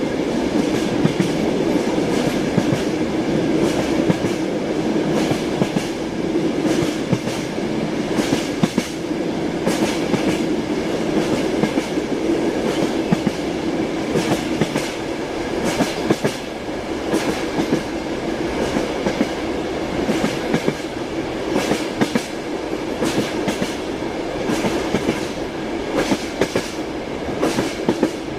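Passenger train heard from inside a compartment car while under way: a steady rumble and hiss with the clickety-clack of the wheels over rail joints coming at irregular intervals.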